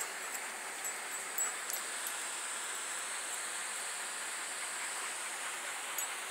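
Steady, even outdoor background noise with a few faint, short high clicks scattered through it.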